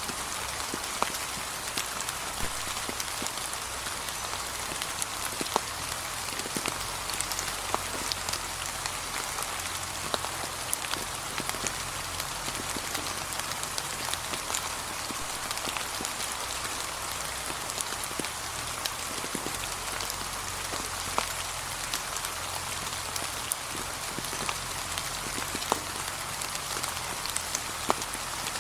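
Steady, gentle rain falling on a path of fallen autumn leaves, a constant hiss dotted with many separate drops ticking sharply.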